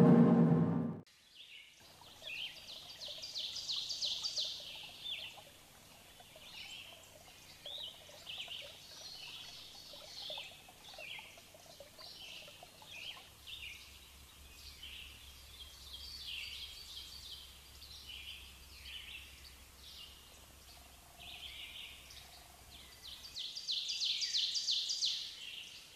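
Songbirds chirping and singing, many short overlapping calls with bursts of rapid trills, busiest shortly after the start and again near the end.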